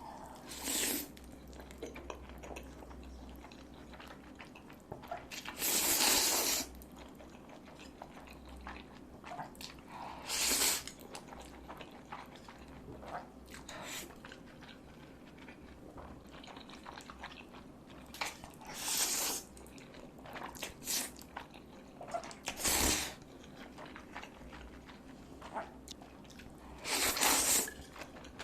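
Close-miked eating: chewing and mouth sounds, with about six louder noisy bursts of bites or slurps a few seconds apart, the longest about six seconds in.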